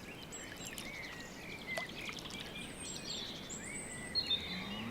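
Birds chirping and calling: scattered short calls over a faint, steady background hiss.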